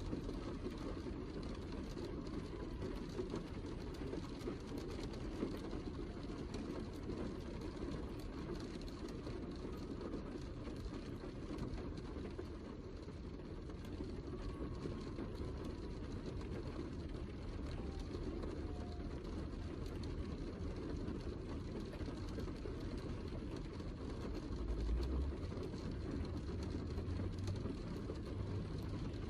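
Steady heavy rain: a dense, even wash of drops, weighted toward the low end, with a brief low rumble swelling near the end.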